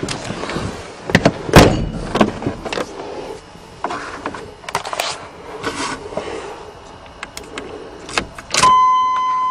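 Irregular clunks, knocks and rattles from a 1988 Chevrolet pickup truck being handled, the loudest about one and a half seconds in. Near the end a steady high electronic tone starts as the truck's radio comes on.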